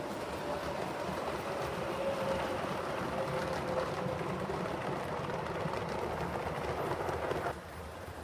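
7mm-scale model train running along the track: a steady running noise with a faint hum, which cuts off suddenly near the end.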